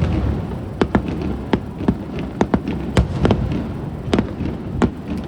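Aerial fireworks exploding in an irregular rapid series of sharp bangs, a few a second, over a continuous low rumble of further bursts echoing off the city.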